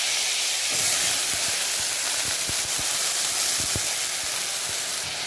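Onion and chilli paste sizzling in hot oil in a kadai: a loud, steady hiss with small crackles.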